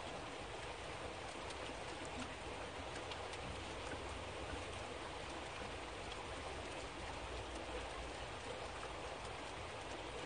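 Steady rain falling, with a light patter of drops.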